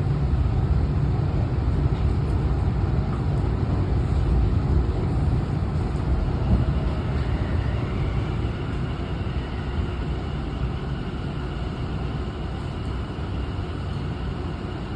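Running noise of a Tokyu Den-en-toshi Line commuter train, heard from inside the car: a steady low rumble that gradually grows quieter as the train slows into its terminal stop. A faint high whine joins about halfway through.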